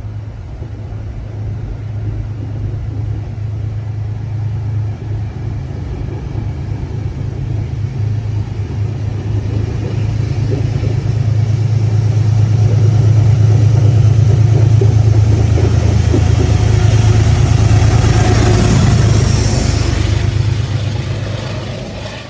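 A passing diesel-hauled passenger train with a deep, steady engine drone. It grows louder to a peak in the second half, then fades over the last couple of seconds.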